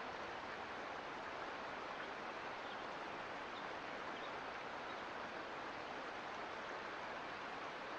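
Mountain creek flowing over rocks: a steady, even rush of water.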